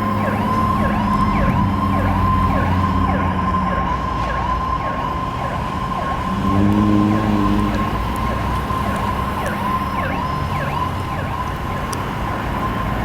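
Fire truck siren sounding throughout, a steady high tone overlaid with rapid repeated falling yelps. A low horn blast comes in briefly about six and a half seconds in.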